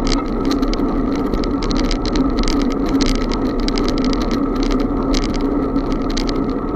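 Riding noise from a moving bicycle: a steady rushing hum with rapid, irregular rattling clicks throughout.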